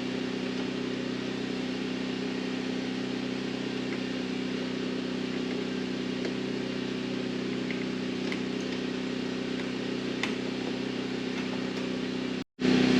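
Steady mechanical hum at a constant pitch, like a motor or engine running at idle. It cuts out abruptly for a moment near the end.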